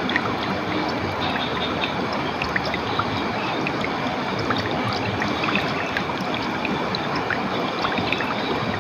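Clear water running in a stream: a steady rush with many small, bright plinks and splashes scattered through it.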